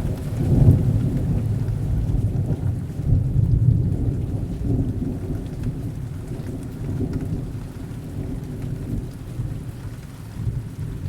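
Heavy rain falling steadily while thunder rumbles low and long. The rumble swells a few times and slowly fades away toward the end.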